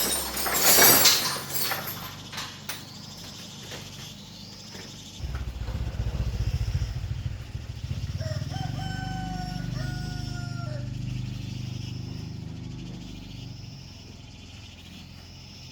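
A rooster crowing once, one long call, about halfway through, over a low steady rumble that starts about five seconds in and slowly fades. A burst of loud clattering noise comes at the start.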